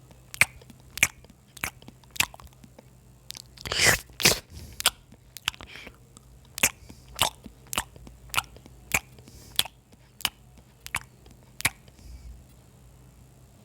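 A person chewing crunchy food close to the microphone: a steady run of sharp crunches, about one every half second, the loudest a little under four seconds in.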